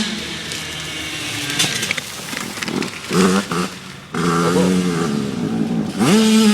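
Yamaha YZ85 two-stroke motocross bike engine revving in short bursts, its pitch rising and falling; it is faint for the first few seconds, then louder from about three seconds in. It sounds labouring and 'dogged out', without its usual ring, which onlookers put down to the rider being in the wrong gear or possibly running low on fuel.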